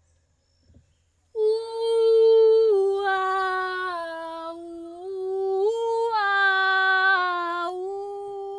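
Women's voices singing long wordless held notes that step up and down in pitch, with two voices overlapping at times; they begin after about a second of silence.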